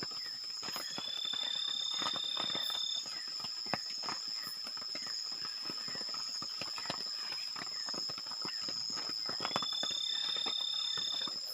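Night forest ambience: a steady high ringing drone of insects, dense with irregular clicks and knocks. A high, thin whistle-like note, rising slightly at its start, is held for about two seconds near the beginning and again near the end.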